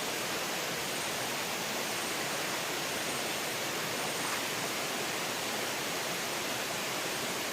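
Mountain stream flowing, a steady rushing hiss of water.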